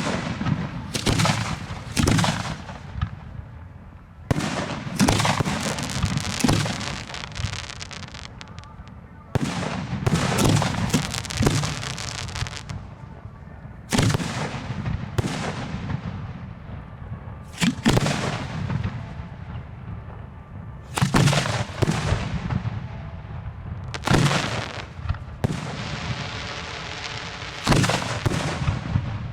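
Fireworks display heard close to the firing site: a run of loud booms in clusters of two or three every few seconds, each dying away, some trailing off into crackling.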